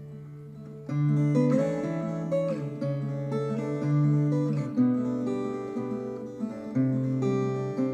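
Viola caipira, the Brazilian ten-string guitar, played slowly as a lullaby. A chord rings and fades, then about a second in a new phrase of plucked notes begins, with one note sliding up in pitch.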